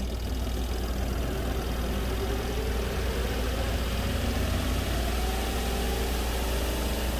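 Spin-dryer tub of a compact twin tub washing machine spinning up: a steady motor hum with a whine that rises in pitch over the last few seconds as the basket gathers speed and throws water out of the clothes.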